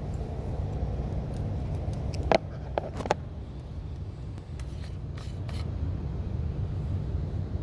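Chevrolet Lacetti 1.6 four-cylinder petrol engine running at idle, a steady low rumble, with a few sharp clicks about two to three seconds in and again around five seconds. The owner is chasing a knock that he thinks may be a hydraulic lifter, louder cold but never fully gone when warm.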